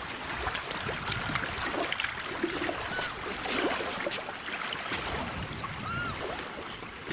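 Gulls giving a few short, arched calls, the clearest about six seconds in, over a steady wash of river waves and wind. Scattered short clicks and scrapes are also heard.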